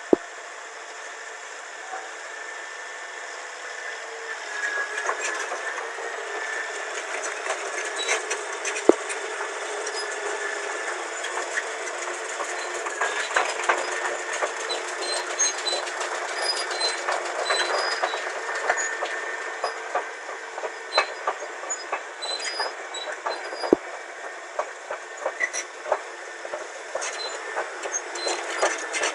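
Caterpillar D8N crawler bulldozer on the move, its steel tracks clanking and rattling over a steady engine whine, with many sharp metallic clanks. The clatter grows louder and busier about four seconds in.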